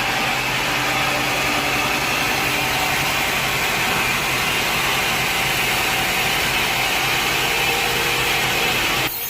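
Sawmill machinery running steadily: an engine drone under the constant hiss of a saw cutting wood. It changes abruptly near the end.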